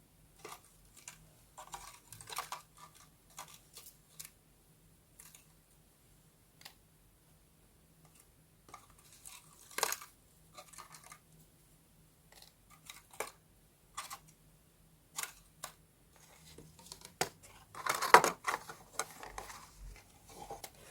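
Scattered small clicks, taps and rustles of paper and craft tools being handled on a desk, with a busier, louder flurry of handling about two-thirds of the way in.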